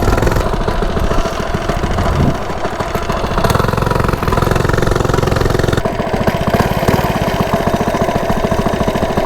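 Coleman CT100U minibike's small single-cylinder engine running steadily, its rapid firing beats clearly audible through an aftermarket header and mini muffler, with the governor removed.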